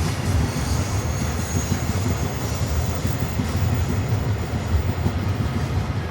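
A train running past on the track: a steady, loud rumble of wheels on rails.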